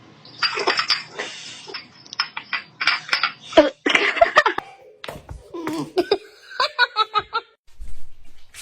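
People laughing in short bursts, with a quick run of rhythmic laughs near the end.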